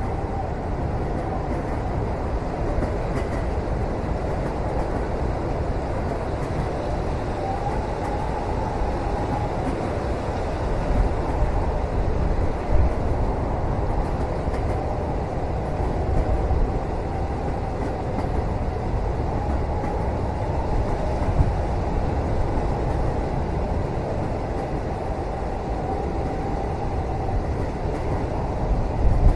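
Steady low rumble of a moving train heard from inside a passenger cabin, with a faint wavering whine and a few soft knocks.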